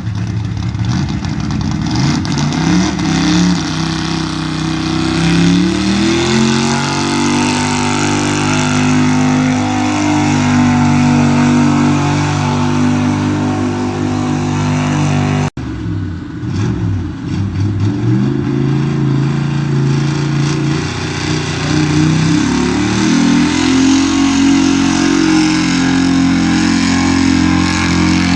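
A pulling vehicle's engine revs up and holds at high revs under load. About halfway through, the sound cuts off abruptly to another run, where an engine again climbs in pitch and holds.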